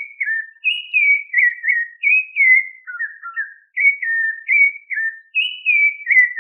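A run of clear whistled notes, about two a second, each slurring downward in pitch, rising and falling in a melodic phrase.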